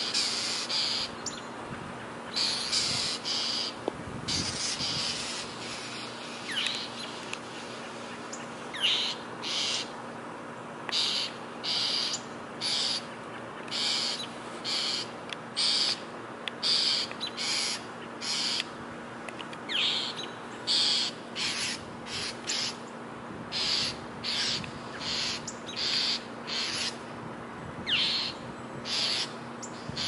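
Small birds calling over and over around a perched hawk, short calls about once or twice a second with now and then a thin falling note: the alarm the birds raise at a hawk with its kill, which the uploader hears as mourning.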